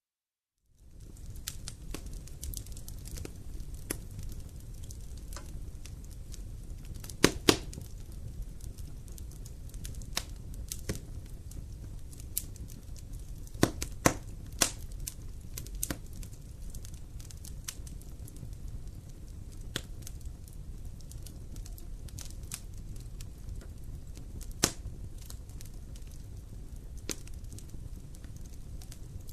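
Wood campfire burning: a steady low rumble of flames with sharp crackles and pops scattered throughout, the loudest a quick double pop about seven seconds in. The sound starts just under a second in, after a brief silence.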